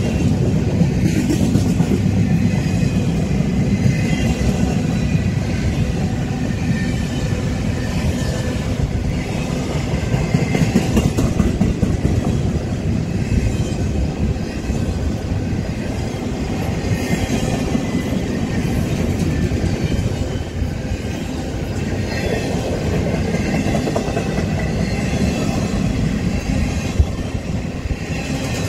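Union Pacific double-stack intermodal freight cars rolling past close by: a steady, loud rumble of steel wheels on rail with occasional clicks as the wheels cross rail joints.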